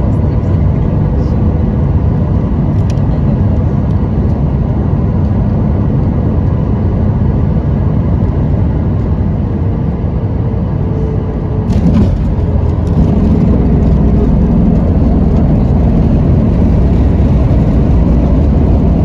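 Boeing 737-800 cabin noise: a loud, steady rumble from the engines and airflow. About twelve seconds in there is a single thump, and after it the low rumble stays louder.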